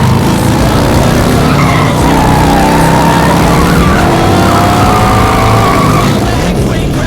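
Race-car engine sounds revving up and down, with tyre squeal, laid over the miniature car race as sound effects. The engine note dips slightly about six seconds in.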